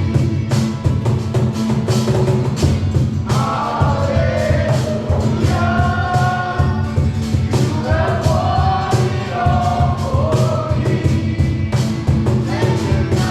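Live worship music: a group of voices singing a held melody over a band with a steady beat and a heavy bass line.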